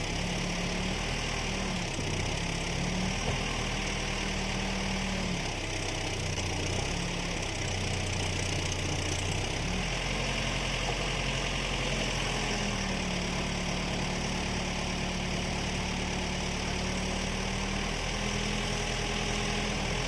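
An engine running steadily at moderate speed throughout, its pitch dropping and rising a little several times as the load or throttle changes.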